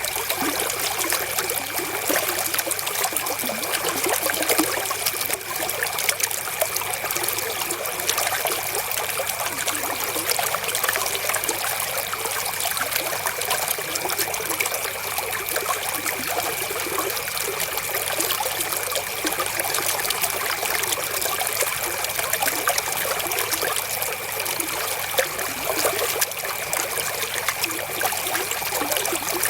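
River water flowing and trickling over stones, a steady dense babble of splashing with no pauses.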